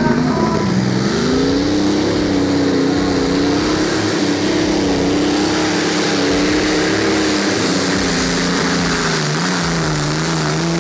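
An engine running under load. Its pitch rises over the first two seconds, holds steady, then drops about nine seconds in.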